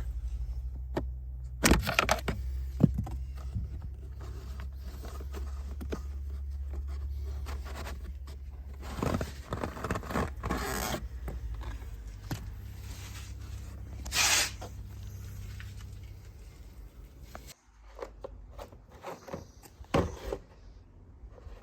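Plastic clicks, knocks and scraping from parts being handled during a car cabin air filter change, over a steady low hum that stops about three-quarters of the way through.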